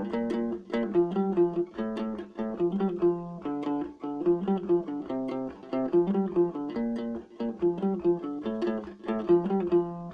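Guitar ukulele (guitalele) with a string tuned down to drop G, playing a repeating riff of plucked single notes.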